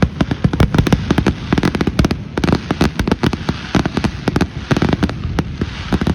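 Fireworks going off in a dense, unbroken barrage of sharp pops and bangs, many a second.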